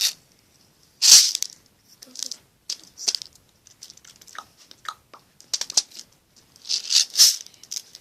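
Metal pins of a pin art toy sliding and rattling in short clattering bursts, loudest about a second in and again near the end.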